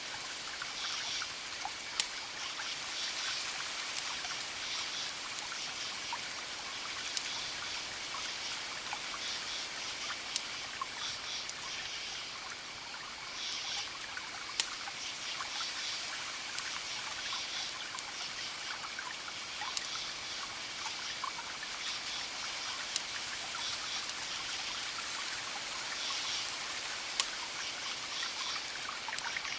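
Campfire crackling with occasional sharp pops, over crickets chirping in repeated high pulses and a steady high trill, with a soft wash of distant ocean waves underneath.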